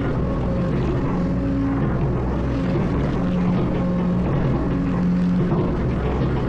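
Excavator's diesel engine running steadily while it works, a constant low drone with a pitched hum on top that steps up and down every second or so.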